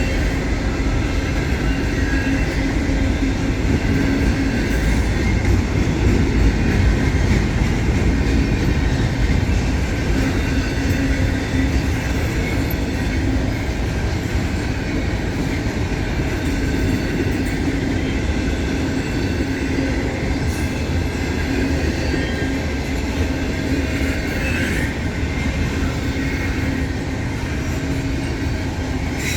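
Freight train cars rolling past on the rails: a steady rumble of steel wheels on track with faint, wavering high-pitched wheel squeal.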